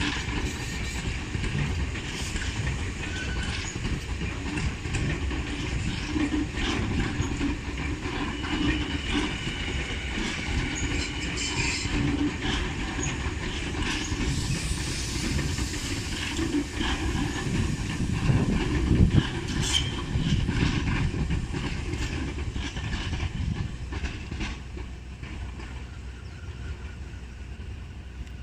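Electric commuter train running past on the tracks, with steady rumbling and wheels clicking over the rail joints. It is loudest about two-thirds of the way through, then fades as the end of the train pulls away.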